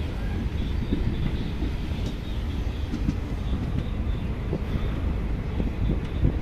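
Indian Railways passenger train running: a steady low rumble of the coach with irregular knocks from the wheels over the rails.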